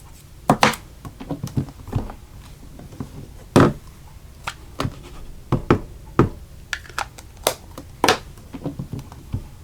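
Irregular light taps and clicks of stamping supplies being handled: a clear stamp and plastic positioning sheet being set down and moved on the work surface.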